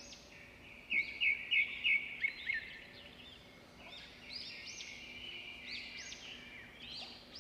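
Small birds chirping: a quick run of short chirps, then a scattering of higher, arching chirp notes.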